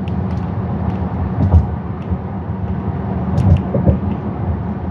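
Cabin noise of a 2018 Mercedes-AMG GLC 43 under way: a steady low rumble of its engine and tyres on the road, with a few dull thumps.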